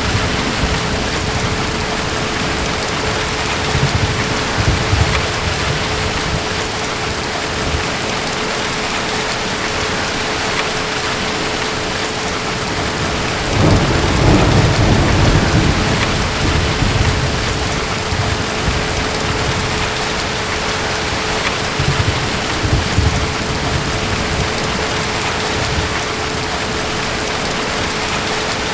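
Steady rain with distant thunder rumbling, the strongest roll a little before halfway through and lighter rumbles before and after it.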